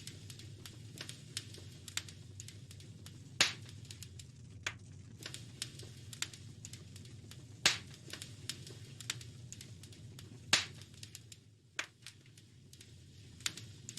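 Wood fire crackling in a fireplace: a steady run of small irregular clicks with three louder pops spread through it, over a low steady rumble.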